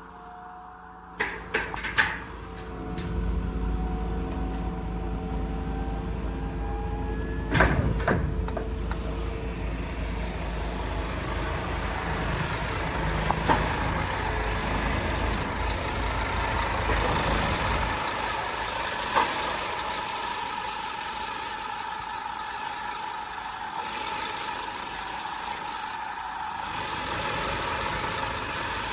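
Scania P230 truck running, with a few sharp clicks and a louder clunk early on, a heavy low rumble that drops away partway through, and a steady whine with hiss in the later part.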